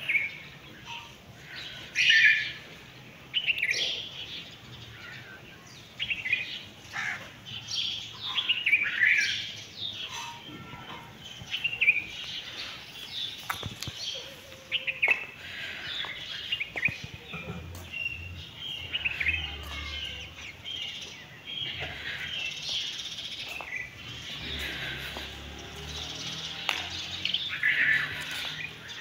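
Several small birds chirping and calling, with short overlapping notes and quick little pitch glides throughout, a few louder calls standing out.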